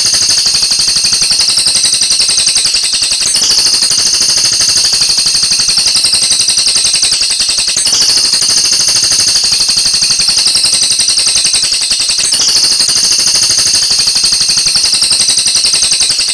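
Oriental magpie-robin giving a very fast, high-pitched rattling trill without a break, its phrase shifting slightly about every four and a half seconds.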